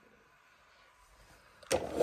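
Quiet at first, then near the end a sudden loud mechanical clattering sound effect starts.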